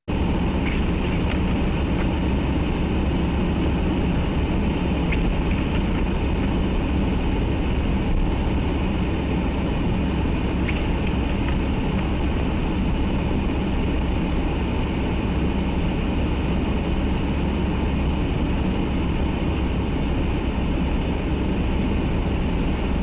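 Steady rumble of a car on the move: engine and road noise, with a few faint ticks.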